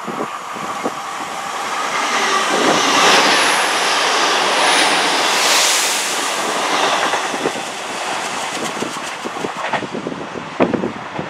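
TransPennine Express Class 802 bi-mode train passing through the station at speed: a broad rush of wheel and air noise swells to a peak a few seconds in, then fades as it recedes, with a run of clicks from the wheels on the rails. Near the end, gusts of wind buffet the microphone.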